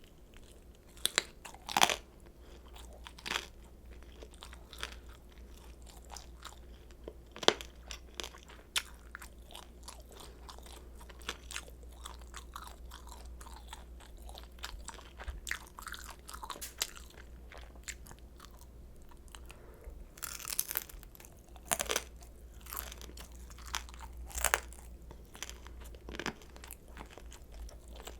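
Close-miked eating sounds: crisp bites and crunching, then chewing of fried kimchi dumplings. The crunches come irregularly, with a few loud ones and a denser run of louder crunches late on.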